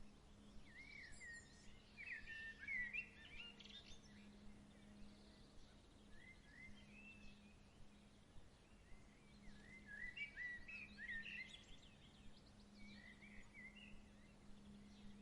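Birds chirping and twittering faintly in two clusters of short calls, with a lull in between, over a steady low hum.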